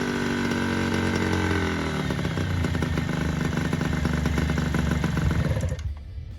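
Honda NSR50's two-stroke single-cylinder engine running, its revs falling away over the first couple of seconds, then running at low revs before the sound cuts off suddenly near the end. The idle will not settle, which the owner puts down to a bad carburetor, likely its low-speed (pilot/slow) jet.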